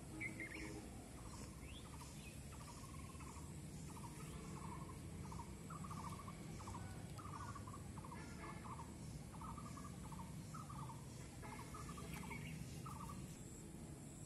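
A bird calling: a long series of short trilled notes, about two a second, over a steady low background rumble.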